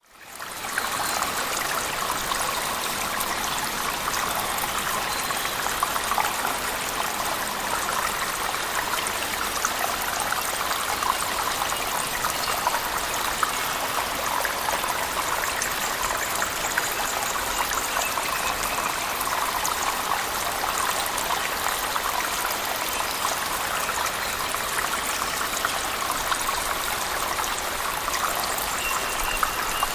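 Waterfall splashing in a cave, mixed with heavy rain: a steady rush of falling water with a dense patter of drops. It fades in over the first second and then holds even.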